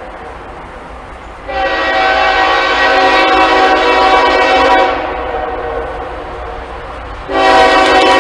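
Locomotive air horn blowing a long blast of several notes at once, then another blast starting near the end, over the steady low rumble of the passing train.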